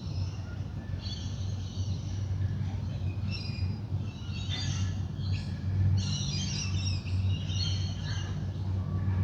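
Dawn chorus: several wild birds chirping and trilling over one another, busiest from about three seconds in, over a steady low hum.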